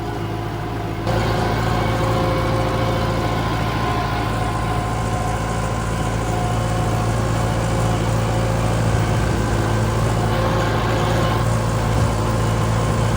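Tractor engine running steadily while pulling a batwing rotary mower across the field. About a second in, it gets louder and fuller, then holds steady.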